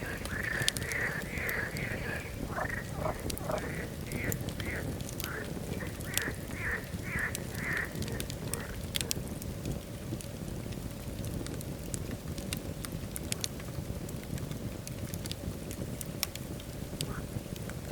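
Wood fire crackling in a fireplace: sharp pops and snaps scattered over a steady rumble of flame. For the first half, a run of short repeated animal calls, about two a second, sounds over the fire, then stops.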